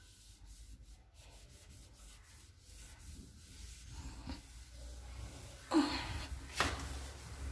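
Scrubbing and rubbing a grimy surface by hand, a faint scratchy rubbing that grows louder, with two sharper scrapes near the end.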